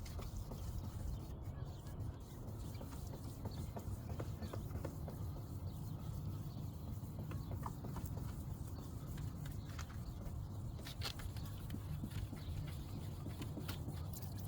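Folded 2000-grit sandpaper rubbed back and forth by hand over a wet plastic headlight lens, with scattered scratchy ticks over a steady low rumble.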